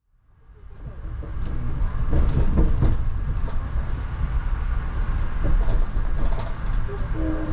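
Amtrak passenger train in motion, heard from on board: a steady low rumble of the wheels on the rails with scattered clicks and knocks, fading in over the first two seconds.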